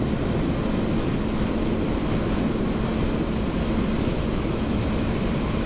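Wind rushing over a helmet microphone at highway speed, with the steady drone of a Honda CB500F's parallel-twin engine underneath.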